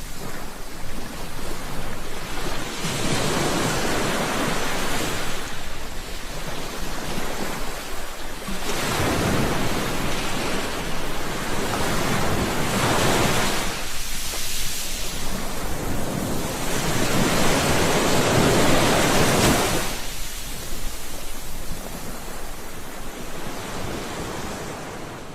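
Sea waves washing on a shore, the rush of surf swelling and ebbing every few seconds as each wave breaks and draws back, fading near the end.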